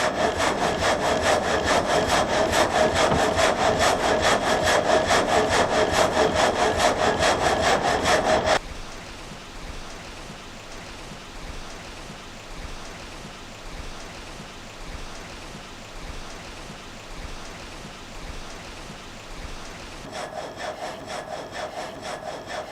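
Water-driven vertical frame saw (reciprocating gang saw) cutting through a log, each stroke of the blade frame heard in a steady working rhythm. About eight seconds in, the sound drops suddenly to a much quieter, slower pulsing, and it grows louder again near the end.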